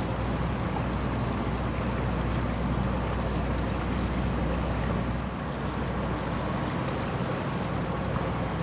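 Steady engine drone with a rushing noise of wind and water over it, as from a motorboat under way.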